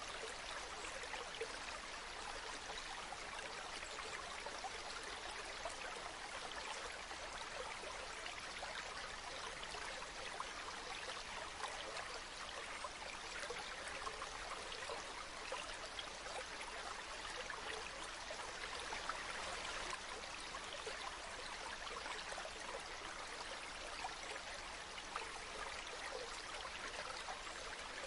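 Flowing stream murmuring steadily, an even rush of water with no breaks.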